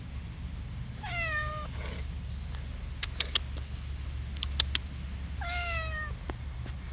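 A domestic cat meows twice, each meow short and dropping slightly in pitch, with a few sharp clicks in between.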